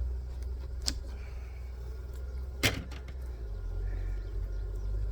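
Hive equipment knocking twice during a hive inspection: a sharp click about a second in, then a louder knock near the middle. A steady low rumble runs underneath.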